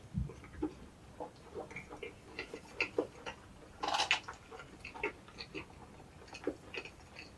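Close-miked chewing of an egg drop toast sandwich: irregular small, moist mouth clicks, with one louder noise about four seconds in.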